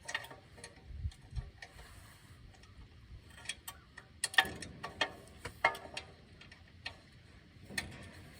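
Irregular metallic clicks of a ratcheting torque wrench being worked on the bolts of a tractor battery box, a few sharp clicks at a time with short pauses between.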